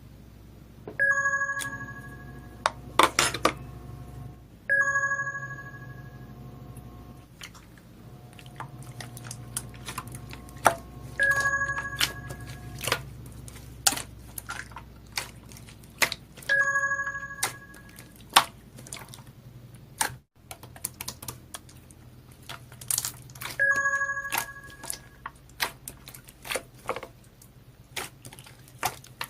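Slime being squeezed and poked, giving many short clicks and pops. A bell-like chime rings five times over it, each ring fading within about half a second.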